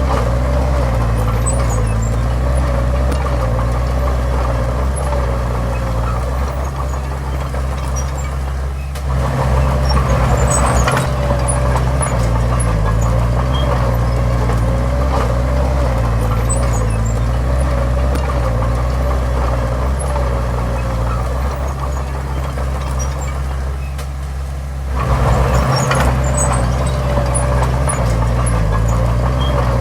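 A bulldozer's diesel engine running steadily, easing off twice and then picking up louder again, about a third of the way in and near the end.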